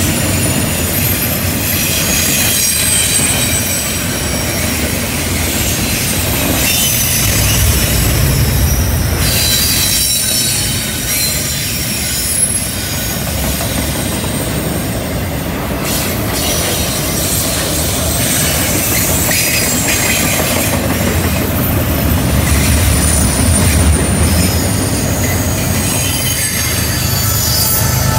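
Double-stack container train rolling past on a curve: a steady rumble of wheels on rail, with high-pitched wheel squeal coming and going as the cars take the curve.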